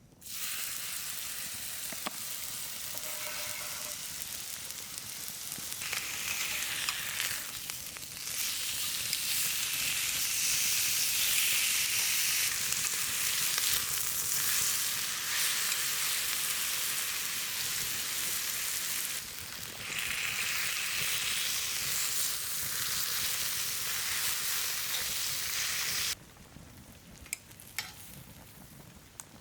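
Food frying in a hot pan, a dense steady sizzle. It starts suddenly, gets louder about a third of the way in, and cuts off abruptly near the end, leaving a few faint ticks.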